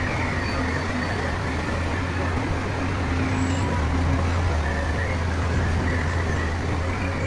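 Heavy diesel engine of earthmoving equipment running steadily with a deep drone, swelling a little louder in the middle.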